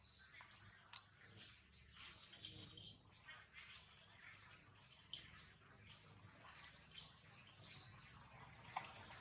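A bird calling in the forest: short, high-pitched chirps that repeat about once a second, with a few faint clicks between them.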